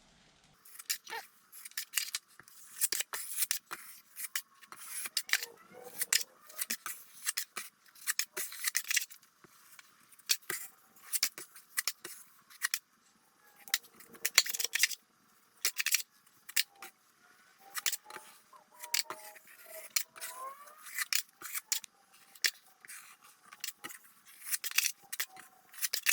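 A 10-inch steel drywall knife scraping joint compound across a wall patch in short repeated strokes, about one a second, with faint squeals of the blade on the mud.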